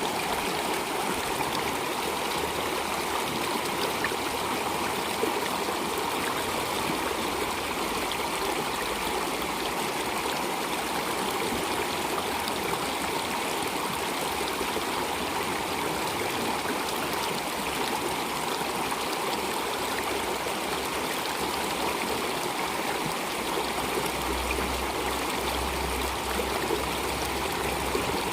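Steady flowing water, an even rushing stream sound with no change in level. A low rumble joins in near the end.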